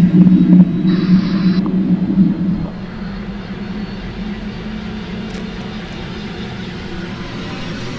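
Airbus H125 helicopter running, heard from inside the cockpit: a steady drone with a strong low buzz that drops away about two and a half seconds in, leaving a quieter even drone. A brief hiss about a second in.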